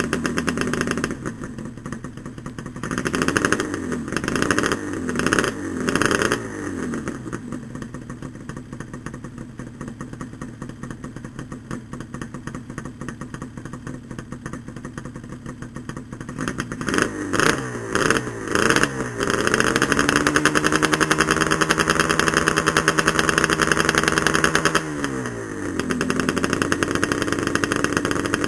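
Yamaha RD350LC two-stroke parallel twin running through Micron expansion chambers with freshly repacked silencers. It idles, takes several quick throttle blips, then holds raised revs for about five seconds before dropping back to idle.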